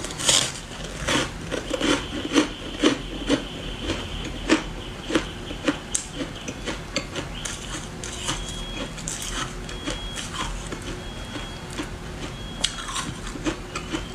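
Ice being bitten and chewed: a run of sharp, irregular crunches, several a second, thinning out in the second half.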